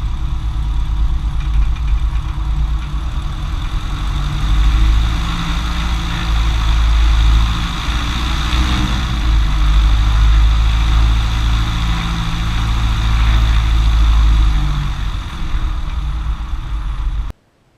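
Cessna 150's four-cylinder Continental O-200 engine running at low power while taxiing after landing: a steady low drone that swells slightly now and then. It cuts off abruptly near the end.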